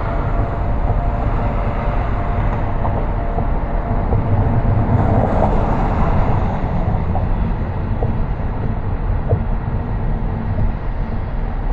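A car driving along a city street: steady road and tyre noise with a low engine rumble. The sound swells briefly about five seconds in.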